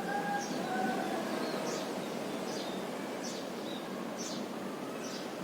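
A small bird chirping: short, high, sharp notes repeated about once a second over a steady background hiss.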